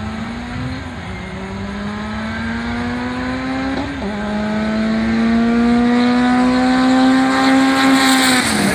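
A car engine accelerating hard on a drag strip. The pitch climbs, drops sharply at a gear change about four seconds in, then climbs again as the engine gets louder, and it falls away near the end as the throttle is lifted.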